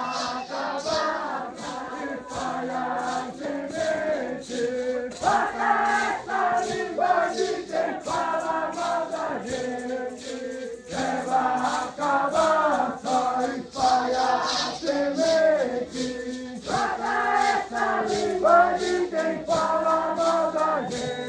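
A group of voices singing a chant together, accompanied by a rattle shaken in a steady beat.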